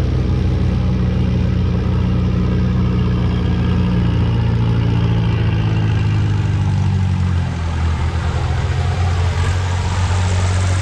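Oliver tractor engine with a hard-filled block running hard under load on the pull, its note slowly sagging as it lugs down, then dropping to a lower, lighter note about three quarters of the way through as the pull ends and the throttle comes back.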